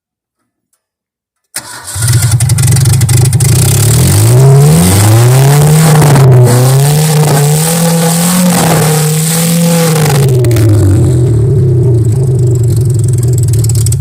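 A 140-cubic-inch car engine starting up about a second and a half in and running loud, revved several times with its pitch rising and falling, then settling back to a steady run.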